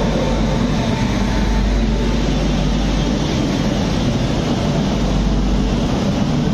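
Steady rumble of train wheels on rails with rushing air, heard from a moving passenger train as it runs close alongside a freight train: a WAG-9 electric locomotive and then covered goods wagons on the next track.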